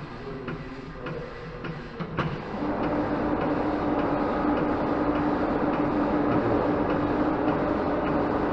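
Faint regular ticking, about twice a second, then a sharp click a little over two seconds in as a machine starts and runs steadily with a constant hum and hiss.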